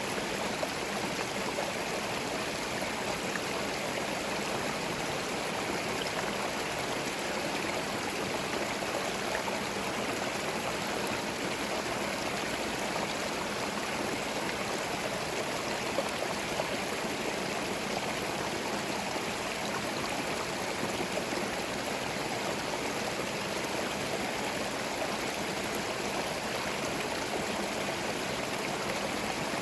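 A small forest stream flowing over stones, a steady gurgling and splashing of water without a break.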